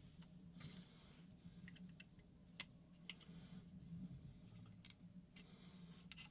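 Near silence with a faint steady hum and a few scattered faint clicks and ticks of small metal parts being handled.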